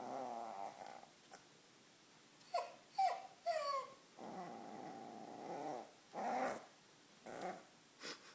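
Young border collie/blue heeler mix puppy growling in two longer stretches, with a run of short yips that drop in pitch in between and a few more short calls near the end.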